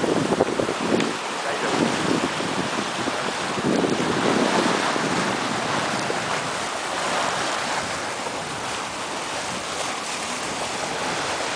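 Wind buffeting the microphone in gusts over the steady rush of water along the hull of a twelve-metre sailing yacht under way.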